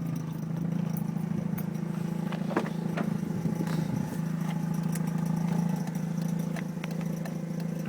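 Mazda RX-8's 1.3-litre Renesis two-rotor Wankel rotary engine idling with a steady hum. A few short clicks and knocks sound over it about halfway through.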